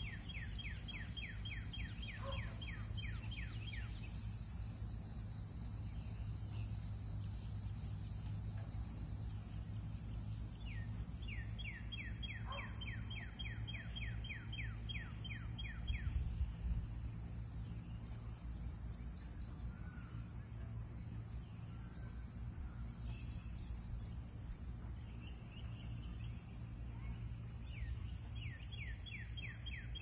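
A bird's fast trill of rapid down-slurred notes, about five a second, given three times and lasting a few seconds each, over a steady low rumble. A brief low bump comes about halfway through.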